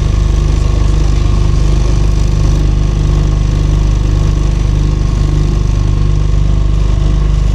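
Engine of a small hire motorboat running steadily at a constant speed.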